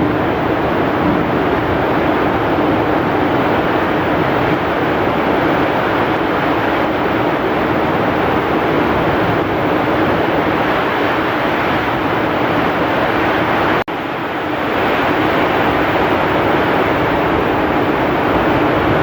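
Heavy rain pouring with wind, a steady dense rush. It cuts out for an instant about two-thirds of the way through and swells straight back.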